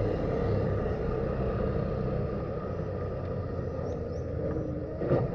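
A steady low outdoor rumble with a faint steady hum.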